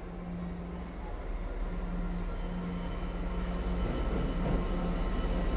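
Train approaching through the station: a low steady engine hum and rumble growing steadily louder.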